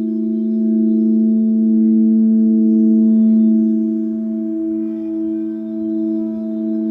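Singing bowls ringing in long sustained tones, several pitches sounding together with a slow wavering pulse.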